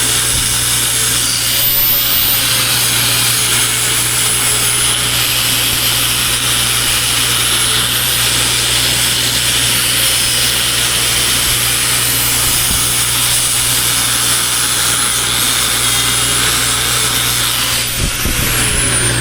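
Angle grinder working steel on the processor boom, its motor whine dipping and recovering as it bites under load. Near the end the trigger is released and the whine falls away as the disc spins down.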